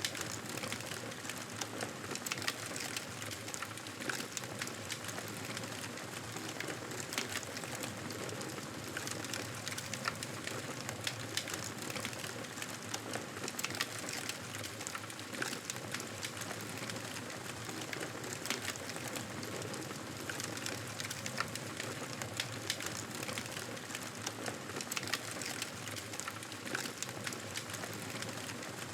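Wood fire crackling in a fireplace: a steady hiss broken by frequent small, sharp pops at irregular intervals.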